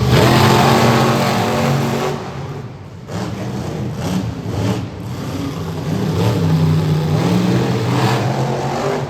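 Monster truck engine revving hard, its pitch rising and falling. It is loudest at the start, drops back about two and a half seconds in, then builds up again.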